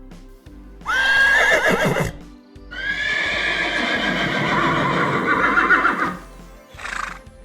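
Two loud animal calls: a short one about a second in, then a longer call that wavers in pitch for about three seconds.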